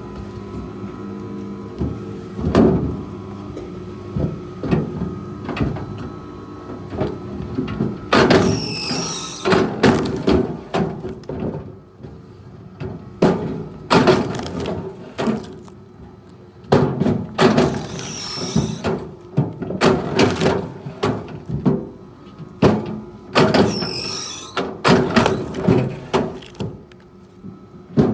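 A heavy machine's engine runs steadily under a long series of wooden knocks, thuds and creaking squeals, as of logs being lifted and dropped. The knocks come in clusters, loudest and densest from about eight seconds in.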